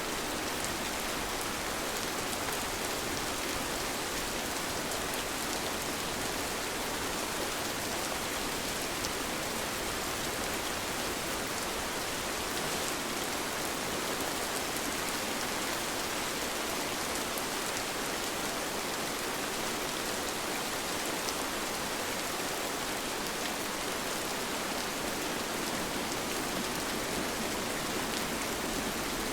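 Steady rain falling: an even hiss with faint ticks of single drops scattered through it.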